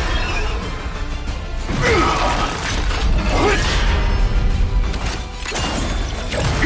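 Mechanical sound effects, whirring and clanking with a deep low rumble, over background music.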